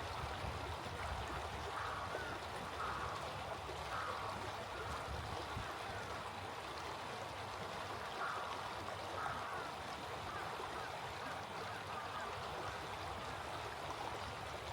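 Small stream flowing steadily, with short bird calls over it several times, in pairs about a second apart.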